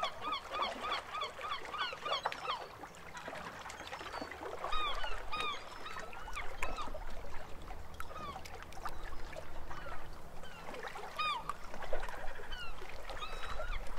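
Birds calling: many short squawks that rise and fall in pitch, some in quick runs of several, with louder bouts about five seconds in and again near eleven seconds.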